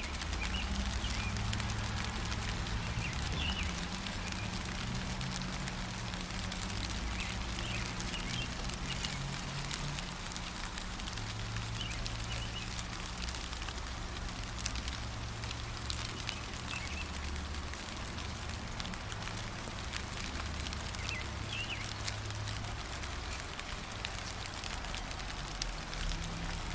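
Steady gentle rain falling, with short bird chirps breaking through now and then, about six times, over a low rumble underneath.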